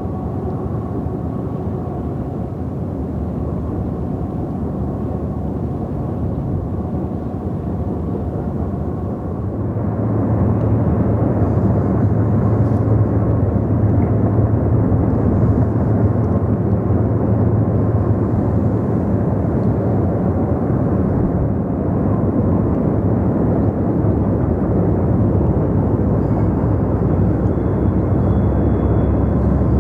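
Diesel-hauled CSX intermodal freight train running along the shoreline, a continuous rumble that grows louder and heavier about ten seconds in.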